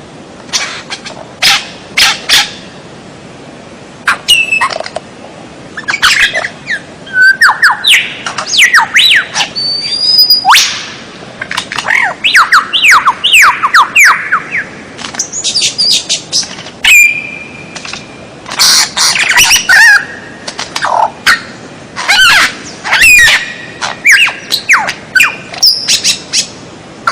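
Birdsong training recording (masteran) of songbird calls: sharp chirps and squawks alternating with quick runs of downward-sweeping whistled notes, in phrases broken by short pauses, with one held whistle about two-thirds of the way through.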